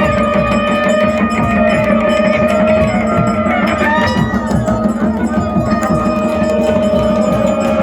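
Loud traditional Pahari temple-procession music: drums beaten in a fast steady rhythm with clanging bells, under held and bending tones from wind instruments.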